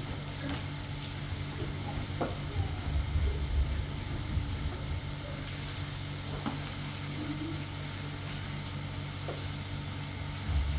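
Steady hiss of heavy rain falling, with a low steady hum beneath, a few light knocks and low rumbles about three seconds in and near the end.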